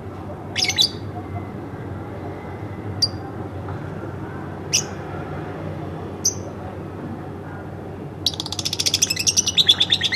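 Pet lovebird chirping: single sharp high chirps every second or two, then from about eight seconds in a fast run of chirps, about ten a second, growing louder.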